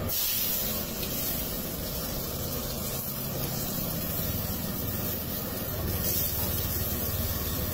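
Chopped onions and green capsicum sizzling in hot oil in a wok, a steady hiss, with a low steady rumble underneath.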